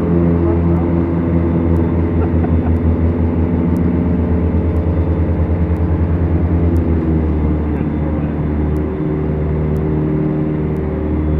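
Beechcraft Duchess's twin four-cylinder Lycoming engines running steadily in flight. From about two to seven seconds in, the sound pulses in a regular beat, as the two engines turn at slightly different speeds. The engine note then shifts and runs smooth and even.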